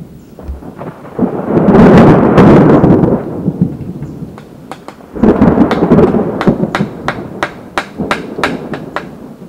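Thunder rumbling in two loud rolls over rain, followed by a quick run of sharp cracks in the last few seconds.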